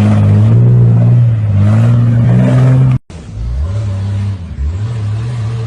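Off-road vehicle engine revving, its pitch rising and falling. It cuts off abruptly about three seconds in and gives way to a quieter engine running with shifting revs.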